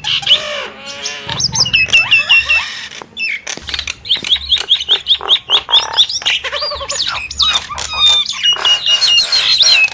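Nias starling calling in a rapid, varied stream of loud whistles, squawks and quick repeated notes, many of them sliding up or down in pitch.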